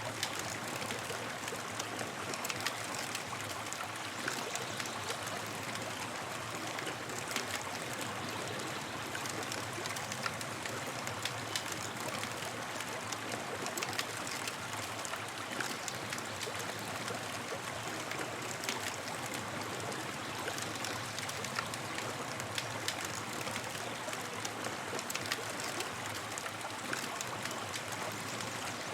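Campfire crackling: a steady hiss with frequent small, sharp pops and snaps.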